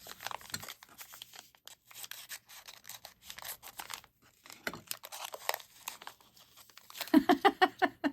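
Thin plastic wrapping on a miniature toy being torn and crinkled by hand in quick irregular crackles. About seven seconds in there is a short pitched sound, louder than the rustling.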